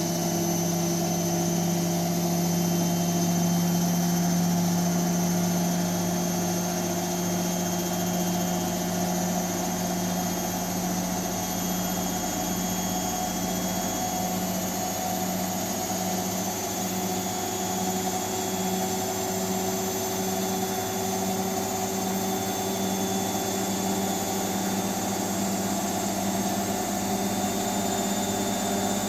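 Hotpoint Extra WMXTF742K washing machine running steadily: a constant motor hum with a faint high whine above it, its pitch creeping slightly higher in the second half.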